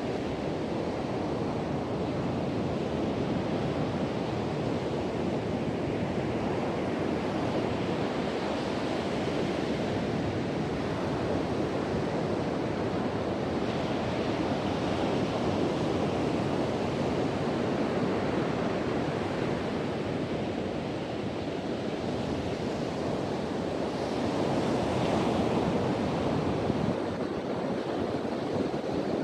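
Sea surf washing onto a beach in a steady rush, swelling louder now and then as waves break, with wind blowing.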